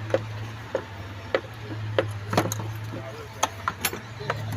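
Irregular clicks and light knocks of plastic clips and wiring connectors being worked loose from the engine's air intake, over a steady low hum.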